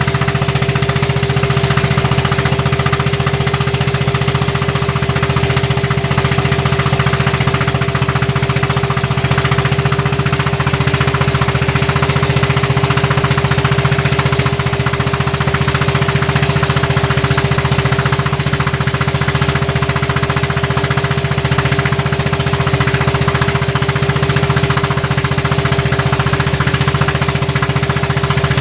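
Inboard diesel engine of a klotok, a small wooden motor boat, running steadily at a constant speed with a rapid, even chugging.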